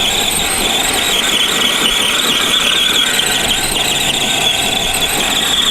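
Electric motor and drivetrain of an RC monster truck running under sustained throttle: a steady high whine over gritty tyre and gear noise.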